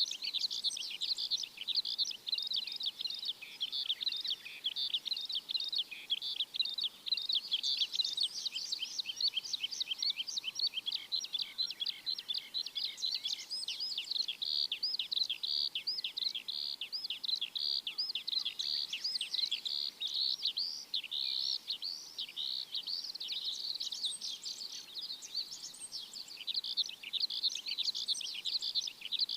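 Many small birds chirping at once: a dense, unbroken chorus of short high chirps and quick falling notes.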